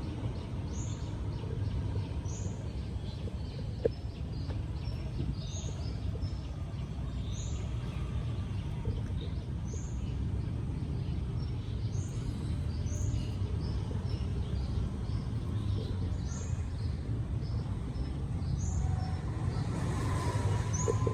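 A bird chirping again and again, a short high call every second or two, over a steady low rumble of outdoor background noise; one sharp click about four seconds in.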